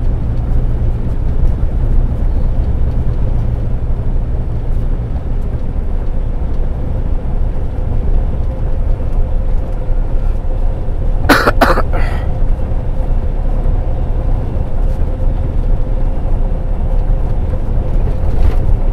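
Semi-truck's diesel engine running with a steady low rumble. A short, sharp sound cuts in about eleven seconds in.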